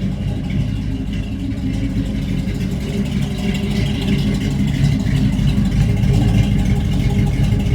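Carbureted truck engine with a Proform 650 race-series carburetor idling loudly, freshly cold-started and not yet warmed up. The exhaust runs steady and low, getting slightly louder toward the end.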